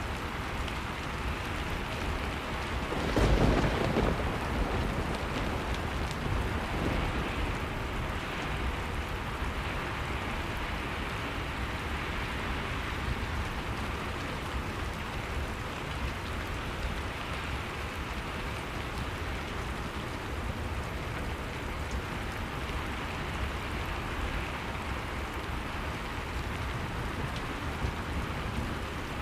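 Steady rain with a thunderclap about three seconds in that rumbles away over a couple of seconds.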